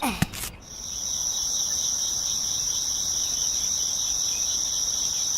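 A steady, high-pitched insect trill like crickets, cutting in abruptly about half a second in and holding evenly without pulses.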